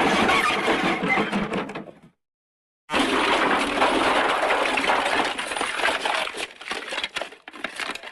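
Crash sound effect of smashing and clattering debris, in two loud bursts with a cut to dead silence about two seconds in; the second burst thins out into scattered clatter and fades.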